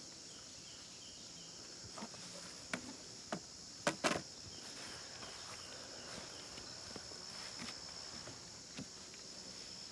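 Steady high-pitched chorus of crickets or similar insects, with a few sharp clicks and knocks about two to four seconds in.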